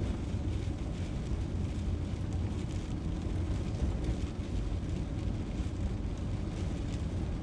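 Motorhome on the move: steady engine and road rumble heard from inside the cab.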